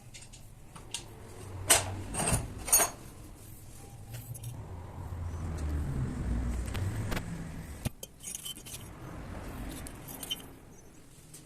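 Metal parts or tools clinking as they are handled, with three sharp clinks about two seconds in, then a low rumble and a few lighter clicks.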